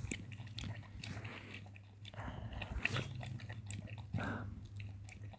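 An animal chewing and biting at food: scattered faint crunches and clicks over a steady low hum, with a slightly louder moment about four seconds in.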